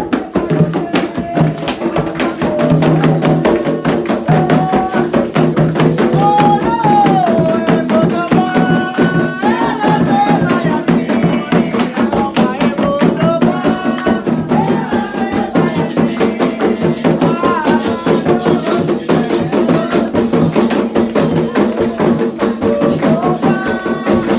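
Candomblé ritual music: hand drums and percussion playing a fast, dense rhythm, with voices singing a chant over them.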